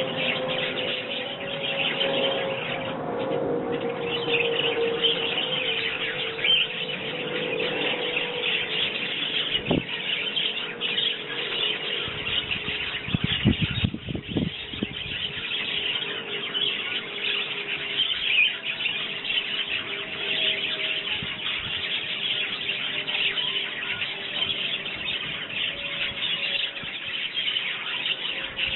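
Small garden birds, house sparrows, chirping continuously. Underneath, a passing vehicle's engine hum slowly falls in pitch over the first third, another vehicle passes a little past halfway, and a few low thumps come just before the middle.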